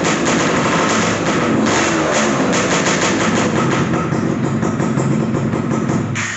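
Modified Yamaha motorcycle engine running loud and steady through an aftermarket Fellow Racing exhaust, its Mikuni VM26 carburettor's venturi enlarged to 22.5 mm. It cuts off abruptly at the very end.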